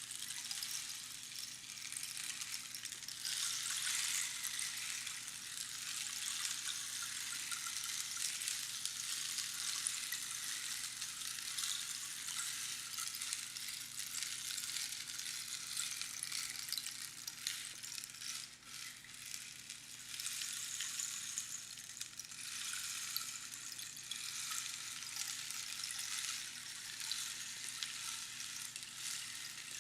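Rainstick being tipped, its pebbles trickling down past the inner pins in a continuous rain-like patter that swells and eases, thinning out briefly a little past the middle before building again.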